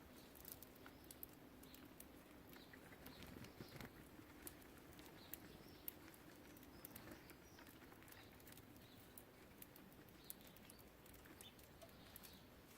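Faint scattered clicks and taps of small birds pecking and hopping at a bird feeder, with a few soft chirps.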